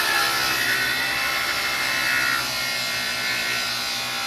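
Black & Decker table saw running and cutting wood: a loud, steady whining noise with high ringing tones from the blade.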